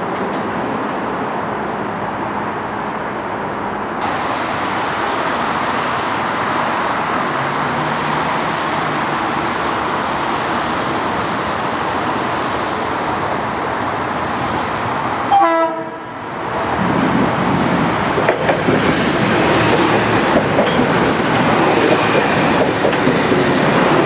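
Electric passenger trains running through the station with a steady rail rumble. It cuts out briefly about two-thirds of the way in and comes back louder, with sharp wheel clicks over rail joints.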